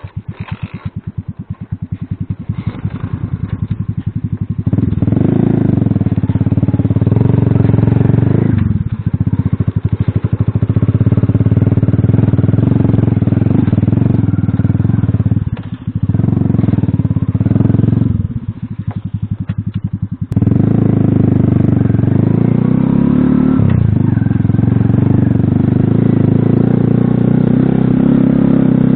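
Alpha motorcycle's small single-cylinder engine catching and running with fast even firing pulses, then opened up and ridden from about five seconds in. There are brief drops in revs around nine and sixteen seconds and a longer easing-off between eighteen and twenty seconds.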